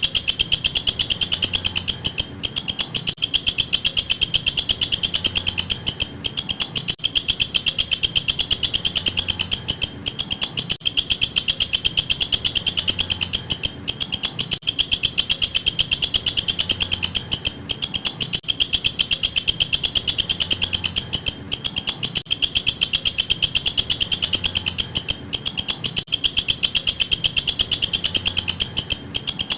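Walang kecek bush cricket calling: a continuous, very fast, high-pitched ticking trill, broken by a brief pause about every four seconds.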